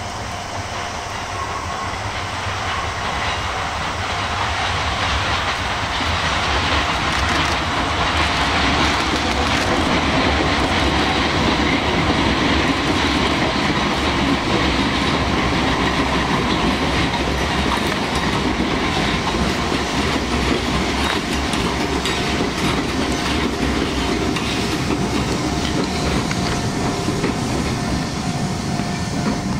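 Izuhakone Railway 7000 series electric train running past, the sound building gradually, staying loud through the middle and easing off near the end.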